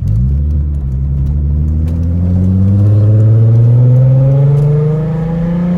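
VW Mk4 Jetta GLI's 24-valve VR6 engine accelerating through a gear with the rear muffler deleted, exhaust pitch rising steadily.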